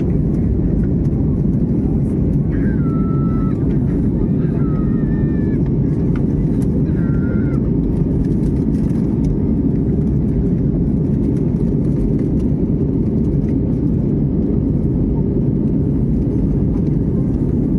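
Steady low rumble of engine and airflow noise inside an airliner's cabin in flight, at an even level throughout.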